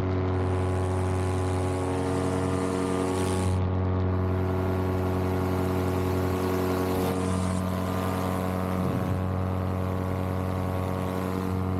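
Vittorazzi Moster 185 single-cylinder two-stroke paramotor engine and propeller running steadily at cruise power in flight, an even drone that holds one pitch throughout.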